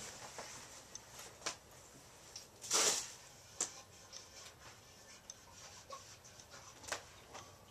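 Light clicks and knocks of a Nelson waterer's bowl being handled while it is emptied, with one louder short rush about three seconds in.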